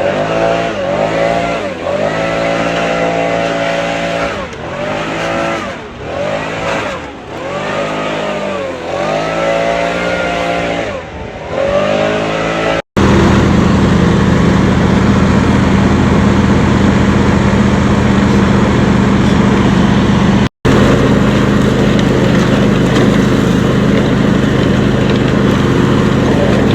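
An engine running with its speed repeatedly rising and falling, about once a second. After a sudden cut, a louder engine runs at a steady, constant speed, with one more brief cut partway through.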